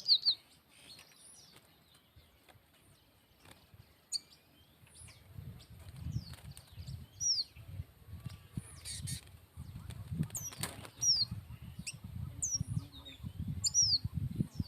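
Bird wings flapping in fits from about five seconds in, with short high downward-sliding chirps from small birds several times and a quick trill at the very start.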